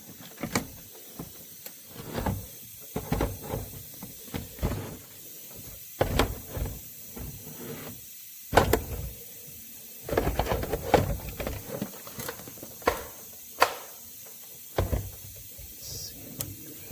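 Irregular clicks, knocks and clatter of hands working with tools and parts, with no steady rhythm.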